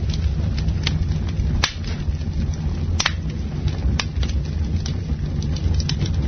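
Campfire burning: the wood crackles with scattered small ticks and a few sharp pops, the loudest about one and a half, three and four seconds in, over a steady low rumble.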